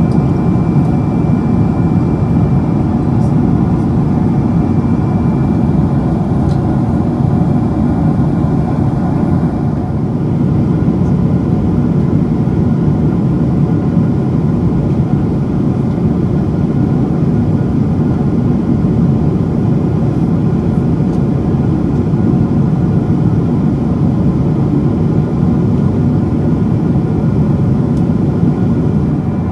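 Steady engine and airflow noise inside the passenger cabin of a Boeing 777-200 airliner. A thin high tone sounds over it and fades out about a third of the way in.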